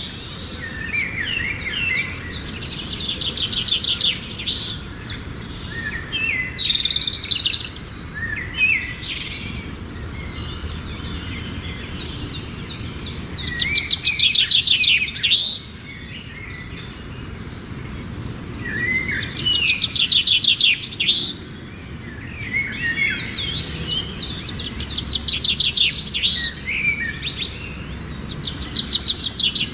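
A bird singing: phrases of rapid trills and chirps, each a few seconds long, repeated about five times with short pauses between.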